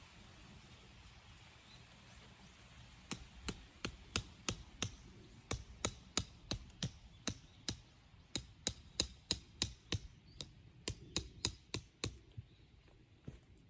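Hammer blows, metal ringing on metal, driving tent pegs into the ground: three runs of quick strikes at about three a second, starting about three seconds in and stopping near the end.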